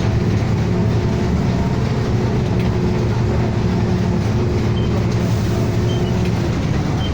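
City bus engine and drivetrain running as the bus drives between stops, heard from inside the passenger cabin: a steady low rumble with a hum that stops about six seconds in.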